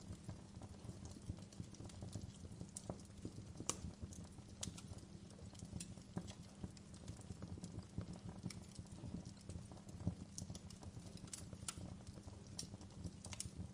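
Wood fire crackling in a fireplace: irregular sharp pops and snaps over a steady low rumble of the burning fire, with a few louder pops about 4 and 10 seconds in.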